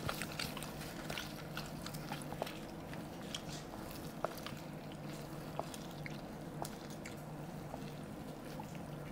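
Close-miked biting and chewing of a mouthful of garlic naan wrapped around chicken curry: scattered soft, wet clicks and smacks of the mouth working the food.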